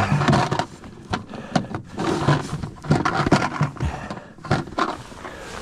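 Knocking and scraping of handling in a small boat, with a few short, low grunts of effort from a man.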